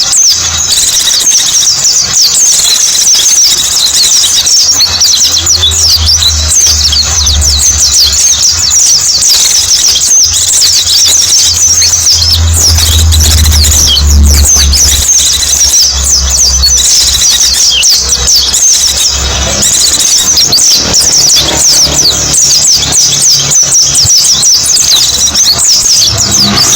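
Pleci (white-eye, Zosterops) birds twittering continuously in rapid, thin, high-pitched chirps that overlap like a small flock, the lure call used by bird trappers and keepers. A low hum runs underneath through the middle stretch.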